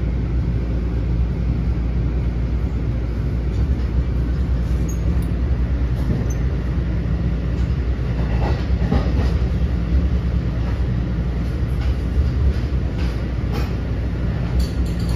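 Cabin noise of an NJ Transit Multilevel passenger coach running at speed, heard from inside on its middle level: a steady low rumble of wheels on rail, with a few faint clicks from about the middle on.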